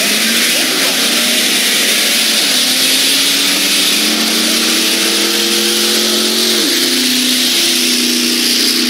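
Car engine accelerating down a drag strip, its pitch climbing steadily, then dropping sharply at a gear shift a little over two-thirds of the way in and holding steady after.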